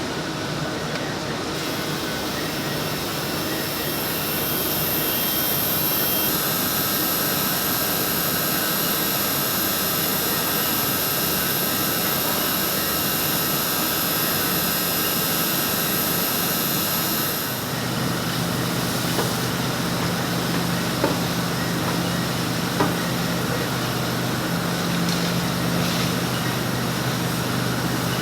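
Button-polishing machinery running steadily with a high whine over a mechanical din; about two-thirds of the way through the whine stops and the noise changes to a lower steady hum, with a couple of light clicks.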